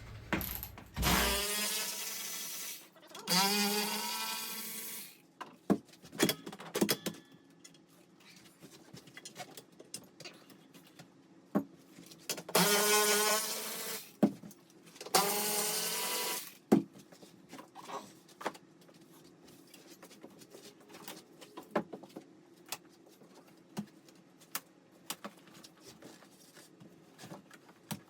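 A power drill-driver runs in four short bursts, two near the start and two about twelve seconds in, its motor whine rising in pitch as it spins up. It is backing out the corroded bolts that hold the truck seat's base. Scattered clicks and knocks come between the bursts.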